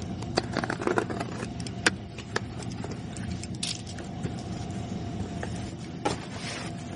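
Scattered light clicks and knocks of handling, over a steady low hum.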